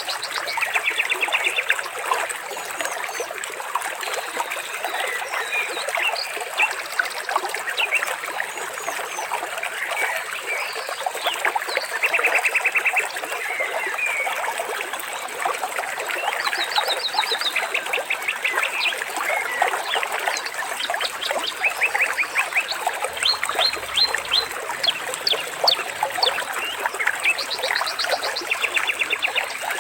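A stream trickling steadily, with birds calling over it in short, very rapid trills, each about a second long, and scattered chirps.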